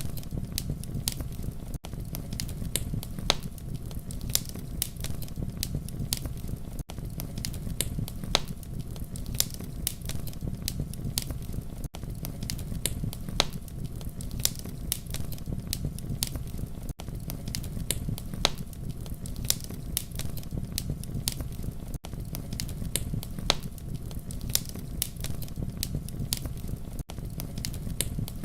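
Wood fire crackling: frequent sharp pops and snaps over a steady low rumble of flames. A brief dip in level recurs about every five seconds, as at the seam of a looped recording.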